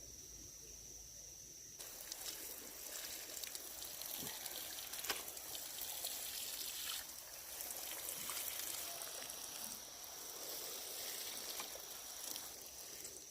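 Running water pouring and splashing, starting about two seconds in, over a steady high insect drone.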